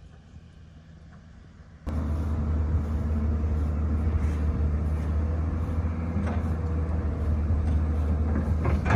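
Faint background for about two seconds, then an abrupt cut to a loud, steady low rumble that continues without a break.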